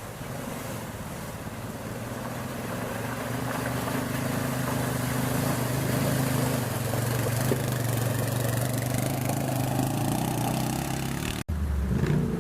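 Racing vehicle engine running at a fairly steady pitch over a noisy hiss, growing gradually louder. Near the end the sound breaks off abruptly and a different engine sound takes over.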